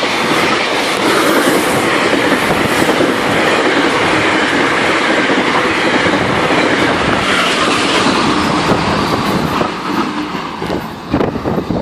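GO Transit express train passing at speed, a loud rush of coaches with a rapid clatter of wheels on the rails, easing off about ten seconds in as the train clears.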